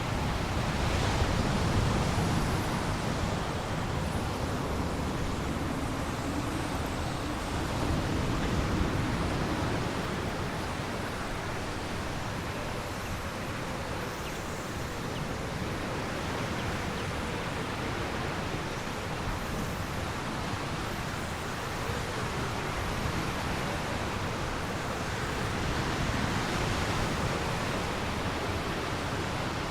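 Storm wind buffeting the microphone with a heavy low rumble, over the steady rush of surf on a large lake, swelling and easing in slow gusts.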